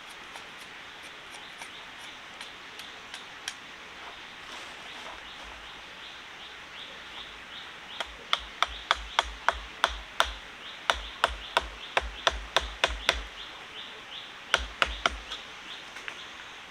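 Hammering on wood: sharp, loud strikes about three a second, in a long run starting about halfway and a shorter run near the end, over a steady background hiss.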